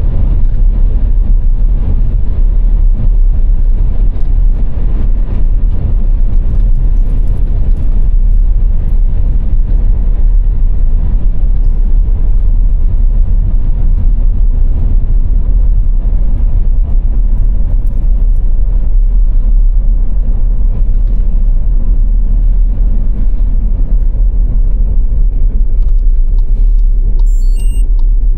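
A car driving at motorway speed: steady, loud road and engine noise, mostly a low rumble with a hiss above it, unchanging throughout. A few brief high beeping tones come in near the end.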